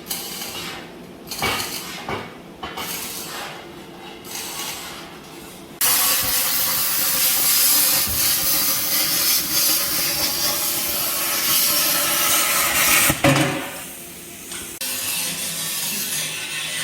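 A metalworking tool at work on steel plate: a few seconds of short, uneven bursts, then a loud steady hiss for about seven seconds that cuts off suddenly, followed by quieter steady running.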